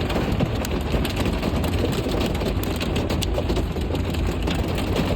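Ice pellets from a heavy icy rain hitting a car's body and windows: many small, sharp ticks over a steady low rumble from the car.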